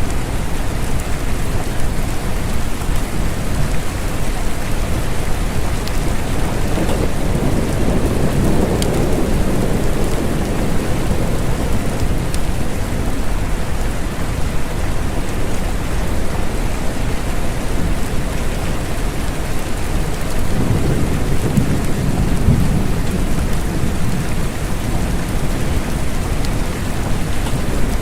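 Steady rain with low rolling thunder, which swells twice: about a third of the way in and again about two-thirds of the way through.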